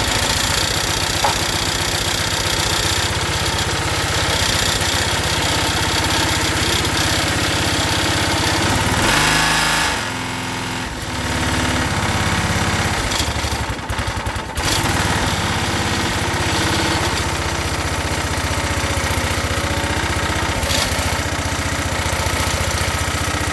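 Briggs and Stratton Quantum Edge 6.5 HP single-cylinder lawn-mower-type engine running on its first runs after its gummed carburetor was cleaned. Its speed sags and the sound drops about ten seconds in, then it picks back up and runs steadily.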